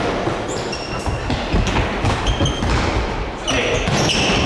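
Mini-football being played in a sports hall: a series of ball kicks and bounces echoing in the hall, with several short high squeaks among them.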